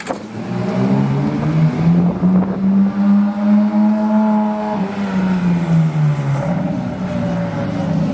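A custom car's engine at low revs as the car drives slowly past, its deep note holding steady and then falling away about five seconds in.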